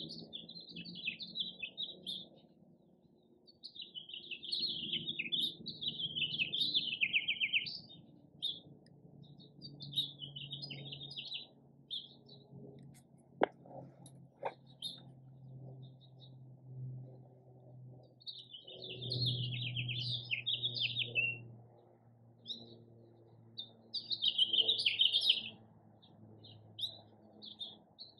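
A songbird singing in repeated bursts of high, quick warbling twitter, about five phrases with pauses between them. Two sharp clicks about a second apart come near the middle.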